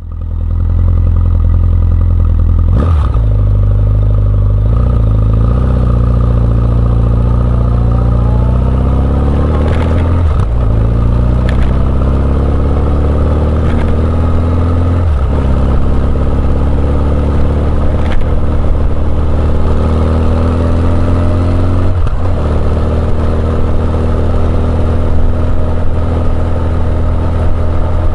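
Honda CB1100EX's air-cooled inline-four engine running through an R's Gear Wyvern Classic exhaust, accelerating up through the gears. The engine note climbs and then drops at each of four upshifts, about three, ten, fifteen and twenty-two seconds in.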